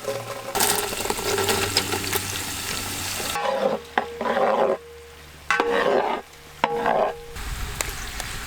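Chopped onions frying in hot oil with garlic and spices, sizzling while they are stirred. The sizzle runs steadily at first; after about three seconds it breaks into several separate bursts of stirring and frying with short pauses between them.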